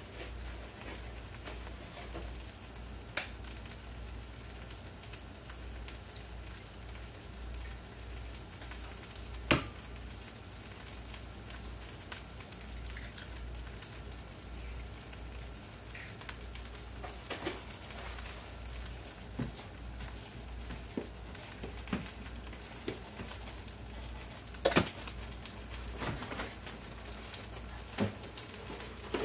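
Chorizo sizzling in a frying pan over a gas burner: a steady frying hiss, broken by a few sharp clicks, the loudest about a third of the way in and again near the end.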